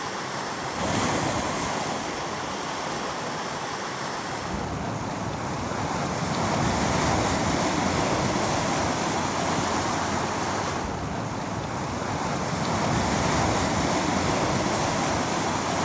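Small waves washing on a beach, rising and falling gently, with wind on the microphone adding a low rumble from about four seconds in.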